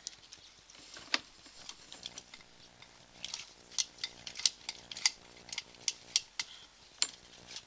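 Sewer inspection camera and its push cable knocking and scraping inside the drain pipe as it is worked through a tight bend from the cleanout, heard as irregular sharp clicks and taps. The clicks get quicker and louder about three seconds in, over a faint steady hum.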